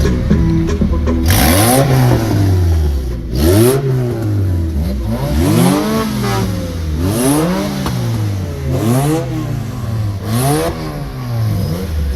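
A car engine revved hard over and over, its pitch climbing and falling back about every one and a half to two seconds.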